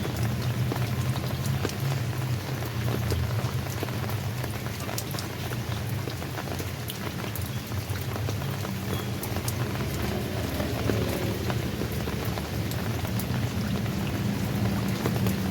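Steady rain falling, with many individual drops ticking sharply on a hard surface over an even hiss. A low steady rumble runs underneath.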